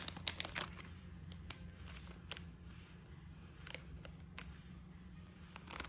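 Small clicks and taps of a Zippo lighter insert being handled, a few close together about the first half-second, then scattered single ticks, over a low steady hum.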